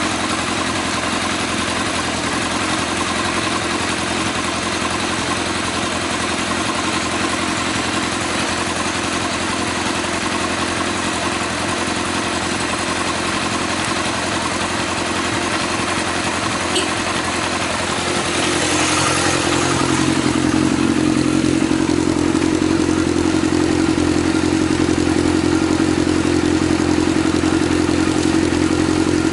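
Yamaha XJR1300's air-cooled inline-four running through an aftermarket muffler, ticking over steadily. About two-thirds of the way in the engine speed rises and holds at a higher, louder steady note.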